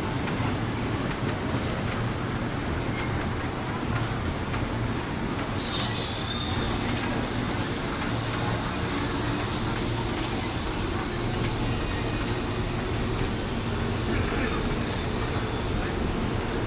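Passenger train pulling into the station platform: a steady low rumble, then shrill, high-pitched wheel squeal starting sharply about five seconds in, several tones at once, lasting around ten seconds before easing off near the end.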